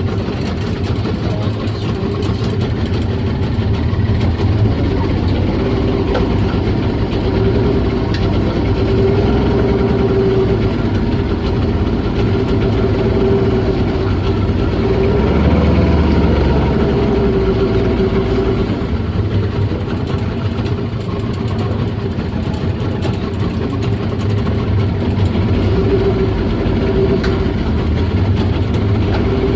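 Boat engine running steadily with a low rumble and a constant hum, its level swelling and easing a little.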